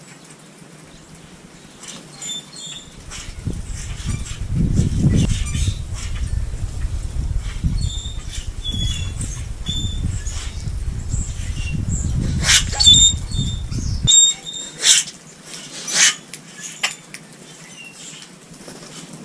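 Small birds chirping in short, high calls, repeated again and again. From about three seconds in to about fourteen seconds a loud, uneven low rumble lies under the calls. A few sharp clicks follow near the end.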